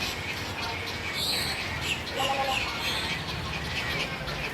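A crowd of birds calling over one another in many short chirps. A louder, high call comes about a second in, and a short, lower pitched call about two seconds in.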